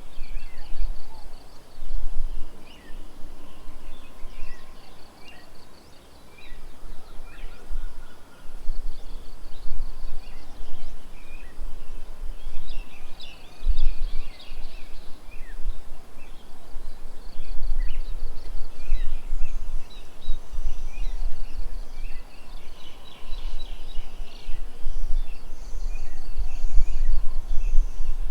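Several birds chirping and calling, with a few short trills of rapid even pulses, over a low rumble that comes and goes.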